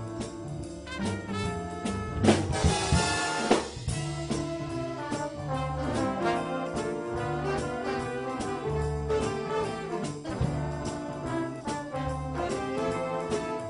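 Student band playing an instrumental holiday tune led by brass, with drum strokes keeping the beat and a louder accent about two seconds in.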